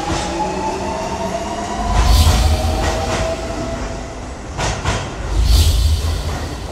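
Train sound effect: a train rumbling through a tunnel, swelling about two seconds in and again near the end. A long steady high tone fades out by about four seconds in, and there are a few metallic clanks in between.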